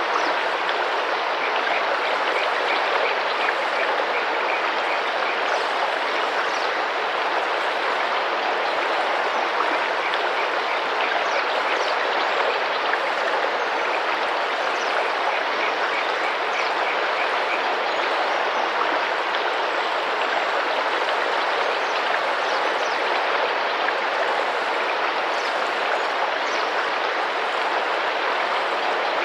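River water running and splashing steadily over rocks, with faint bird calls over it: scattered short high chirps and a few quick runs of repeated notes.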